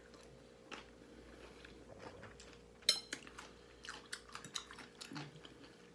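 A person chewing a mouthful of food: faint, soft, irregular mouth clicks, with one sharper click about three seconds in. A faint steady hum runs underneath.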